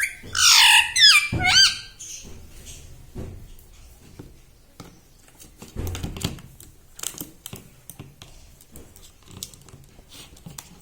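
Pet ringneck parrot giving a quick run of high, bending calls in the first two seconds. After that come scattered soft knocks and taps.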